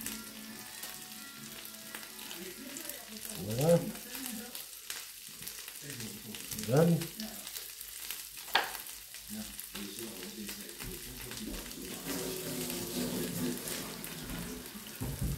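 Diced potatoes and butter frying in pans on the hob, a steady sizzle. Two short rising squeals come about 4 and 7 seconds in, with a brief click soon after.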